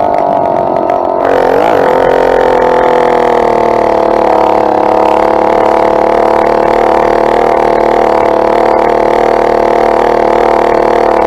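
Two-stroke motorized bicycle engine running under way. About a second in it gets louder and brighter, the pitch dips briefly, then it holds a steady drone.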